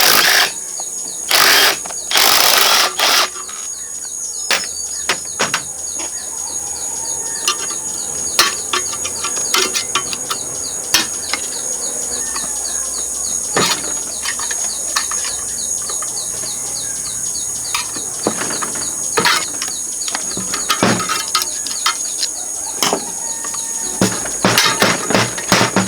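Tools and metal parts clicking and tapping at irregular intervals, with a few loud rasping bursts in the first three seconds. Behind them runs a steady high insect drone with fast regular chirping.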